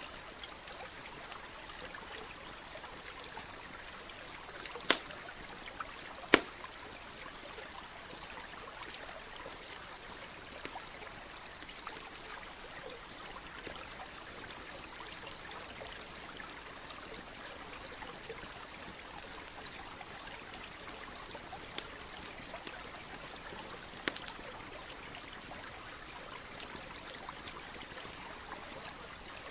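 Steady rush of a nearby stream with a campfire crackling over it: scattered sharp snaps throughout and two loud pops about five and six seconds in.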